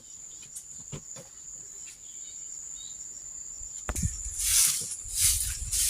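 A steady, high-pitched insect trill (cricket-like) drones throughout. About four seconds in, loud rhythmic swishing strokes start, roughly one and a half a second: a broom sweeping the yard.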